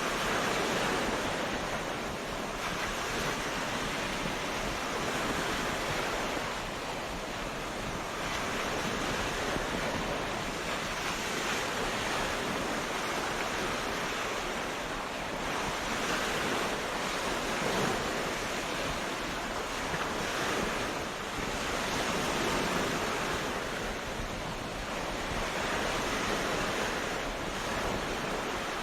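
Sea waves breaking and washing on a beach, a continuous surf that swells and eases every few seconds.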